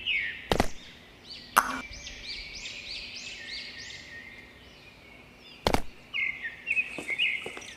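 Small birds chirping, with a run of about six quick, repeated arched chirps in the middle, over which come three sharp knocks, one near the start, one about a second and a half in, and one near the end.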